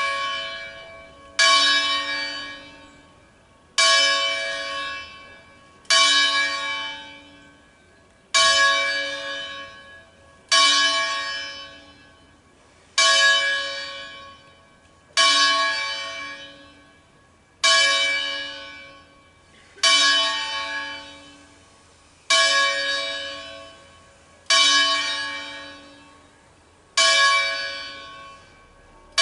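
A single church bell from a 1953 Angelo Ottolina ring struck at an even pace, about once every 2.3 seconds, twelve times. Each stroke rings out with the same pitch and fades before the next.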